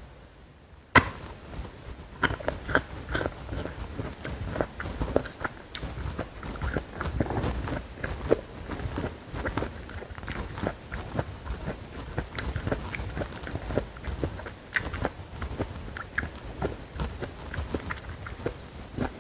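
Close-miked eating: a sharp crunchy bite about a second in, then steady chewing of crisp food with many small crunches.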